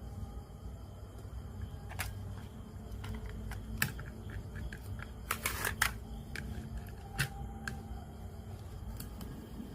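Scattered small clicks and taps at an irregular pace, with a short rattling cluster near the middle, from handling the parts of a JVC PC-W100 radio-cassette during repair, over a faint steady low hum.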